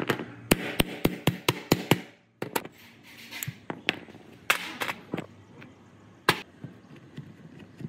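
Hand-tool hammering: a quick run of about seven sharp taps in the first two seconds, then a few single knocks spread apart.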